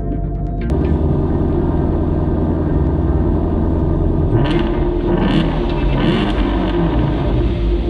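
Car engine and exhaust running, coming in abruptly about a second in, then revved in about three short blips in the second half.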